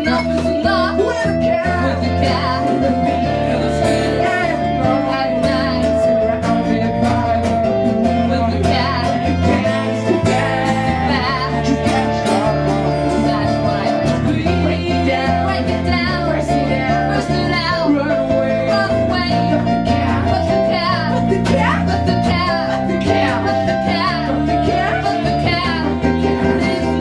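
Live rock-pop band music led by guitar, playing an instrumental stretch of the song with no sung lyrics, at a steady loud level.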